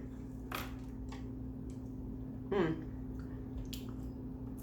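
Close-up wet chewing and mouth smacks while eating kimbap, with a few sharp clicks and one short falling 'mm' sound about two and a half seconds in, over a steady background hum.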